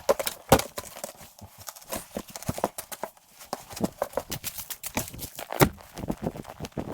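A rapid, irregular run of sharp clicks and knocks, with two louder knocks, about half a second in and near the end.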